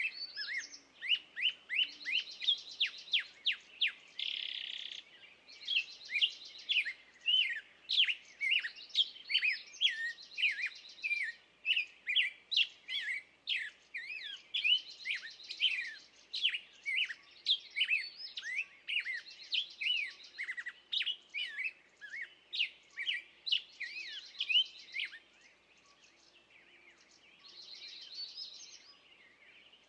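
Woodland songbirds singing: a dense run of quick chirps and short falling notes, with trilled song phrases repeating every couple of seconds. The singing thins out and gets quieter near the end.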